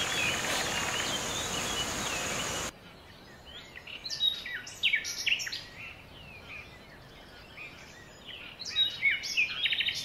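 Steady hiss with a thin high tone that cuts off suddenly about three seconds in. After it, quieter birdsong: many short chirps and quick falling whistles from several birds.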